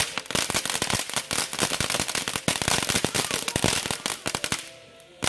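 Small consumer firework going off in a dense, rapid string of sharp crackling pops. The pops pause briefly near the end, then start again.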